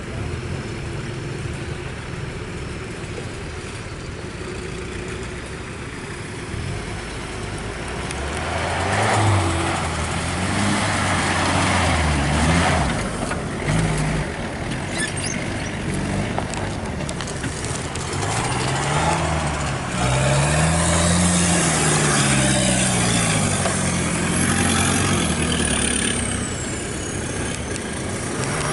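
Jeeps and motorcycles driving past one after another. About a third of the way in their engines grow louder, and the engine note rises and falls as each vehicle goes by.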